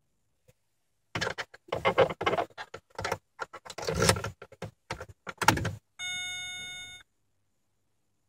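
A run of irregular clicks and rattles as the ignition of a 2002 Opel Vectra C is turned on a cold no-start, then one steady electronic warning beep from the instrument panel lasting about a second.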